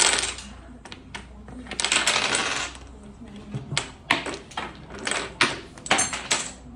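Clatter of small hard objects: two rattling bursts, then a quick run of sharp clicks and knocks in the second half.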